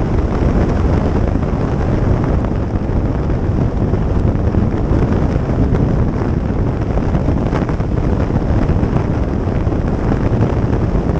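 Wind buffeting the microphone on a moving motorcycle: a loud, steady low rushing.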